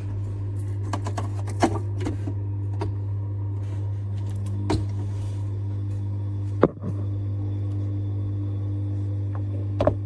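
Vibratory pump of a Faber Slot Plast ESE-pod espresso machine switching on and running with a steady low hum, with small clicks throughout. The hum briefly cuts out and restarts about two-thirds of the way through.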